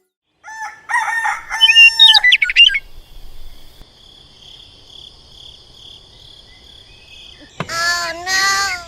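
Farmyard fowl calling, then a steady high insect buzz. Near the end a rooster crows loudly.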